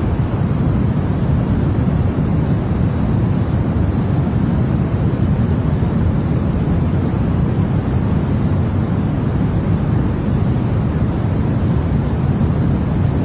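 Continuous steady white-noise track for baby sleep: an even, deep hush weighted toward the low pitches with little treble, unchanging in level.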